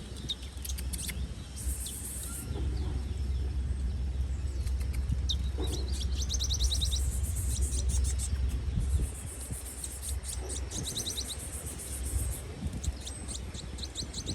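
A bird calling in rapid trills of short high chirps, several times over, against a steady low rumble.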